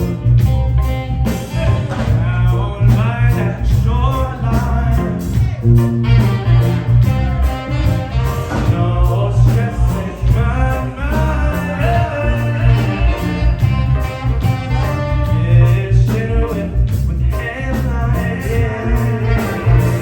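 A live reggae band playing: drums, a prominent bass line, keys, guitar and a horn section of trumpet, trombone and saxophone.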